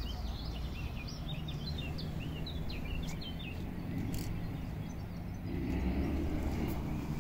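Outdoor ambience: a steady low rumble, with a small songbird chirping a quick run of short notes through the first three seconds.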